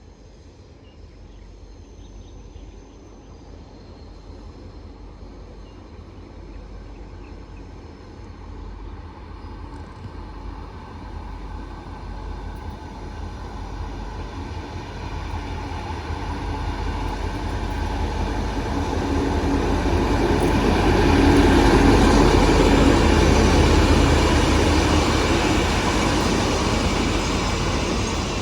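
A train approaching and passing: a rumble and rail noise that grow steadily louder over about twenty seconds, loudest a little past twenty seconds in, then begin to ease off.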